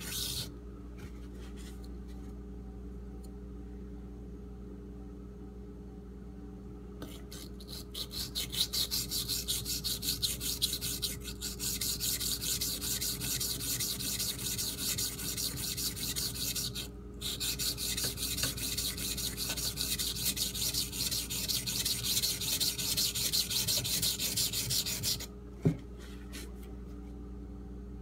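Steel knife blade of an Ontario Utilitac II tanto (AUS-8A) scraping back and forth on a Shapton Pro whetstone in quick rasping strokes, raising a burr on the blade's second side. The grinding starts about a quarter of the way in, pauses briefly past the middle, and stops shortly before the end with a single click.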